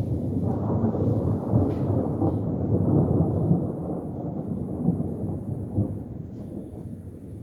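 A long rolling rumble of thunder, deep and continuous, that swells at the start and slowly fades away toward the end.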